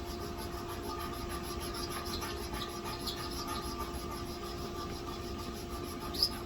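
A steady mechanical hum with scattered short, high squeaks, a few more of them near the end.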